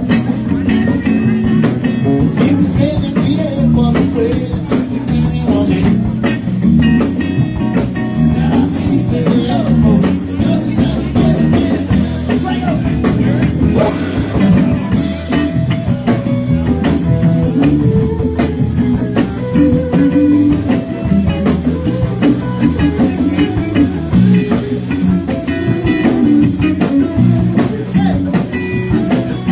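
Live blues-rock band jam: electric guitar playing lines over bass and a drum kit.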